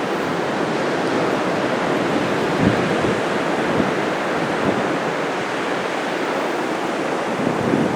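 Heavy ocean surf from a large hurricane swell, breaking steadily on the beach, with a few brief gusts of wind buffeting the microphone.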